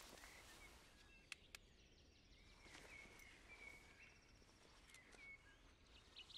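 Near silence: faint woodland ambience with a few soft bird chirps, and two small clicks about a second and a half in.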